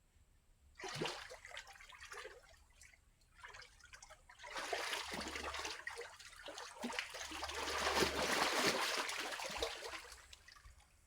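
Shallow muddy water splashing and trickling in irregular spurts, starting about a second in, growing louder from about four and a half seconds and fading near the end.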